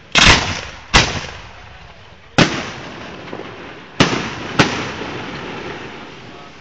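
Aerial fireworks bursting: five sharp bangs at uneven intervals, the first the loudest, each trailing off in a rumbling echo.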